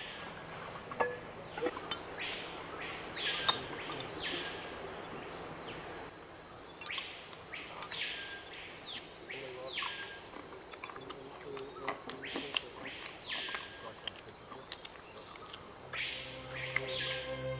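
A bird giving whistled calls that sweep up and then drop, singly or in quick runs of two or three, every few seconds, over a steady high hum of insects. A few sharp clicks sound among them.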